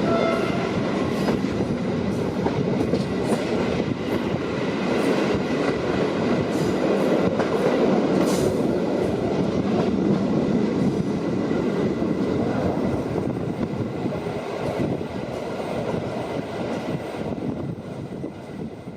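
Passenger train running on the rails, wheels clicking over the rail joints over a steady rumble, with a faint steady high whine throughout. The sound fades out near the end.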